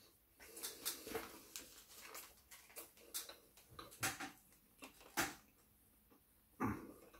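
Close-up mouth sounds of eating doner kebab meat: chewing with many small wet clicks and lip smacks, and a few louder sharp knocks about four, five and six and a half seconds in.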